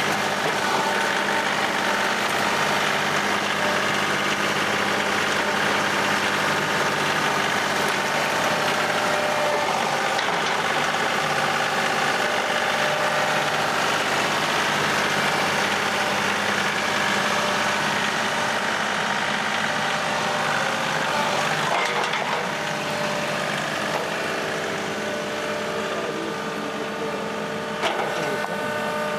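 John Deere 2038R sub-compact tractor's three-cylinder diesel engine running steadily while it works a loader rock bucket through dug-up soil, with a few knocks near the end.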